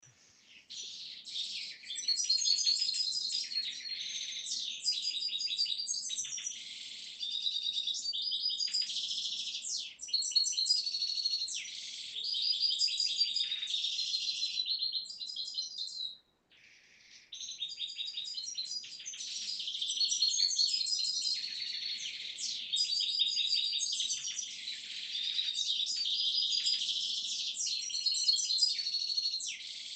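Many small birds chirping and twittering at once in a dense, continuous chorus of high trills, with a brief break about halfway through.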